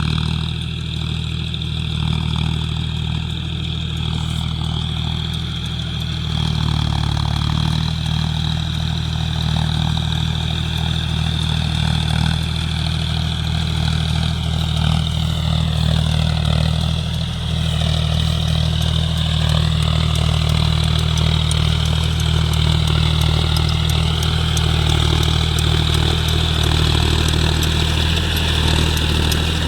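Diesel engine of a John Deere 5050 D tractor running steadily under load while driving a rotavator in wet mud. The engine gets a little louder about seven seconds in, and a higher whine above it dips and rises in pitch midway.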